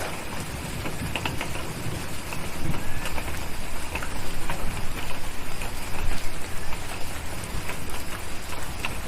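Steady rain pattering, with scattered sharp crackles and pops from a wood fire in a fireplace.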